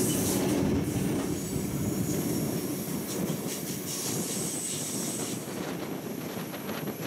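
Moving passenger train heard from aboard: a steady rumble and rattle of the wheels running on the rails, with a high hiss of rushing air that dies away in the first second.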